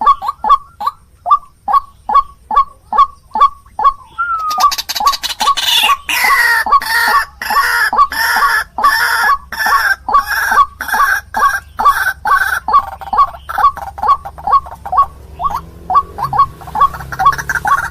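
White-breasted waterhens (ruak-ruak) calling, a rapid, rhythmic run of repeated croaking notes, about three a second. About four seconds in, a second, louder and denser chorus of calls joins in over it, as a bird-lure recording.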